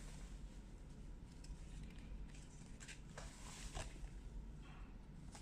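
Faint handling noises of paper and packaging, a few light rustles and taps over a low room hum.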